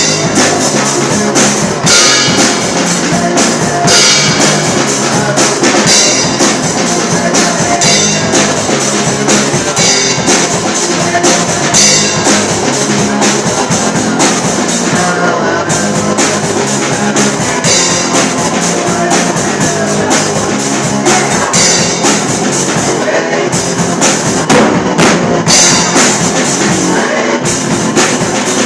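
Drum kit played live in a rock rehearsal: a steady beat of bass drum and snare with a cymbal accent about every two seconds, over other pitched instruments.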